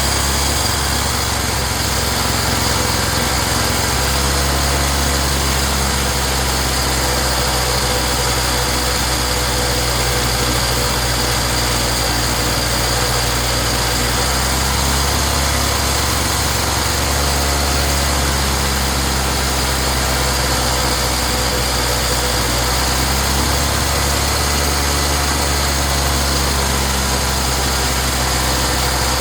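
Small gasoline engine of an inverter generator running steadily, its low hum shifting slightly a couple of times. The engine now runs after a no-start fault was traced.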